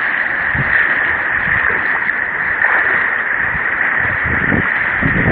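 Steady rush of fast-flowing river water, heard through a smartphone's microphone.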